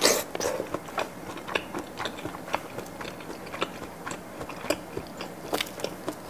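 A bite into a grilled kielbasa sausage, loud and sharp at the start, then close-miked chewing with many small crackly, wet mouth clicks.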